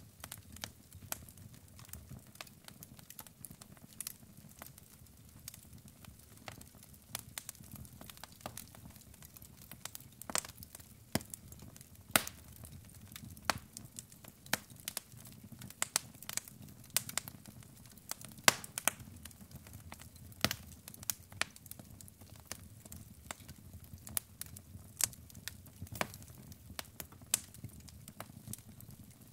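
Log fire crackling: irregular sharp pops and snaps of burning wood, several a second, over a low steady rumble of the flames.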